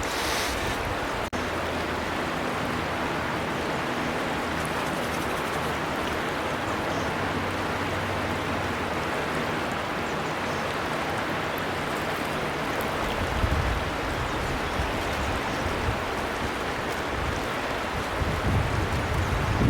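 River water rushing and babbling steadily. A couple of low rumbles come in about two-thirds of the way through and near the end.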